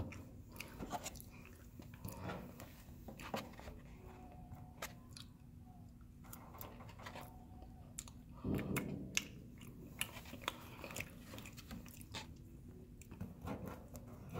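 Close-up chewing and mouth sounds of a person eating a Cinnabon cinnamon roll, with many small scattered clicks and a louder patch about eight and a half seconds in.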